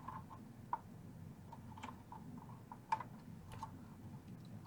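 Faint, scattered light clicks and taps of small hand tools against a tube amp's chassis and solder terminals during desoldering, with two sharper ticks, one just under a second in and one near three seconds.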